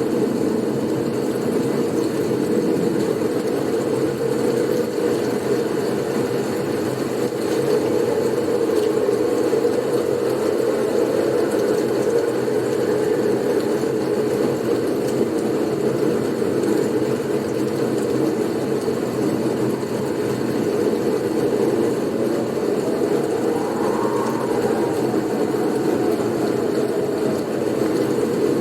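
Blizzard wind as a steady low rushing noise, with a faint whistle that rises and falls about three-quarters of the way through.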